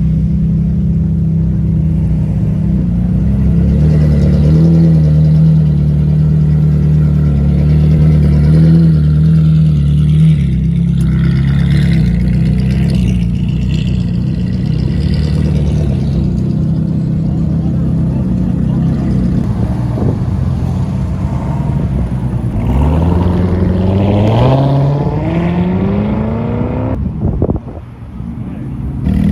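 A car engine running loudly at a steady high note, then revving with a sharply rising pitch about three-quarters of the way through. It cuts off abruptly near the end.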